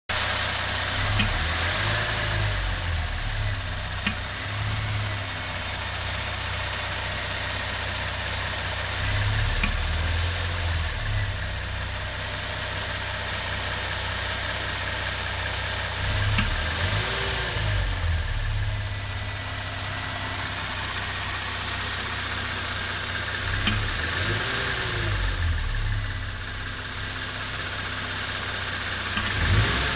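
A 2013 Hyundai Genesis Coupe's 3.8 GDI V6 idles warm and is given a few light throttle blips. A sharp clunk or click sounds about six times, at irregular gaps; the owner traces it to the throttle body when light throttle is applied.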